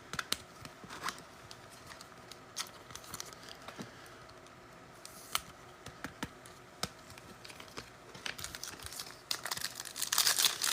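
Trading card packs being handled: light scattered clicks and rustles of cards and wrappers, with foil pack wrappers crinkling and tearing more densely in the last couple of seconds.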